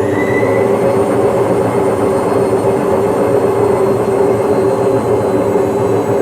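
Washing machine on a long spin cycle, its drum spinning fast with a loud, steady hum and whine; the high whine finishes climbing and levels off right at the start.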